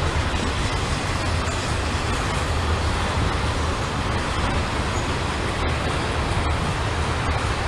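Freight train passing close by: a steady, loud rumble of rolling cars with a low hum underneath.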